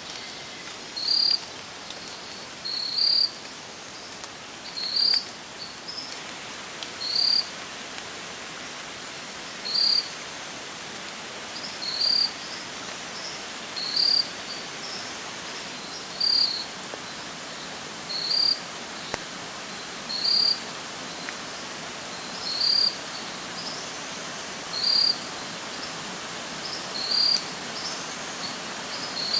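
A short, high-pitched chirp repeating about every two seconds, over a steady hiss of flowing creek water.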